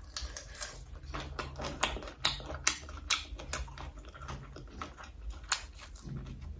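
Close-up chewing of food: irregular crunchy, wet mouth clicks, a few each second.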